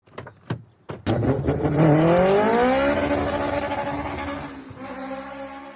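A few short clicks, then a car engine and exhaust accelerating hard: the pitch rises steeply for about two seconds, then holds steady while the sound fades away.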